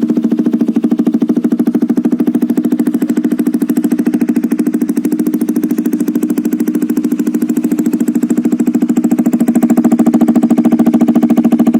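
Bajaj Pulsar RS 200's single-cylinder engine idling through an aftermarket SC exhaust: a steady, rapid pulsing exhaust note that grows a little louder near the end.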